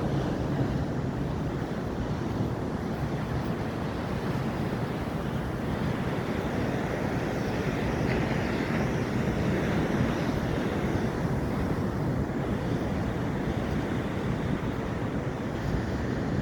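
Ocean surf rushing steadily, with wind buffeting the microphone as a low rumble.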